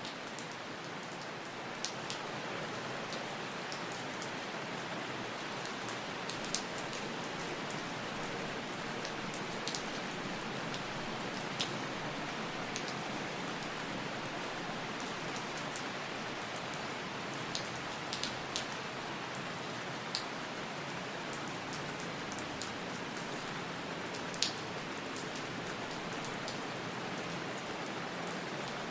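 Steady rain: an even wash of rainfall with scattered sharp drips ticking on a surface every second or two.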